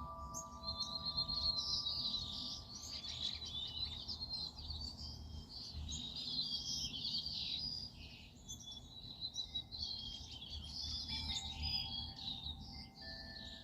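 Many small songbirds chirping and singing in a busy, overlapping chorus. Wind chime tones ring on from before and fade out early, and new chime notes come in near the end.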